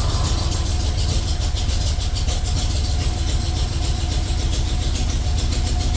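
Vehicle engine idling steadily just after being started, with a fast, even low pulsing; it runs good.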